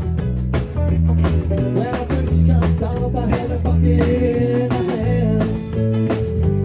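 Live band music with no singing: guitar over bass and a steady drum beat.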